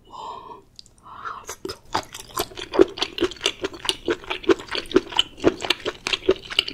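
Close-miked chewing of springy stir-fried octopus: wet, rhythmic mouth clicks about three a second, starting about a second and a half in.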